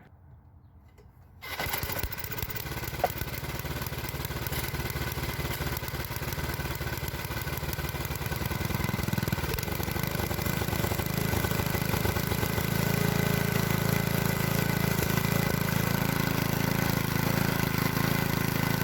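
A small engine comes in suddenly about a second and a half in and runs steadily, growing louder and deeper from about halfway through. There is a single sharp click shortly after it comes in.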